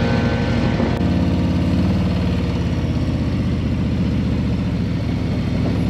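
Harley-Davidson motorcycle's V-twin engine running at low speed, its note shifting slightly about a second in.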